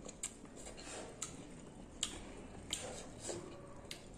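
Close-up eating sounds of someone chewing fruit: sharp wet mouth clicks and lip smacks about once a second.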